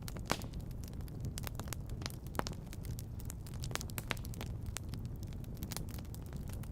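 Wood fire crackling in a fireplace: irregular sharp snaps and pops, a few louder than the rest, over a steady low rumble.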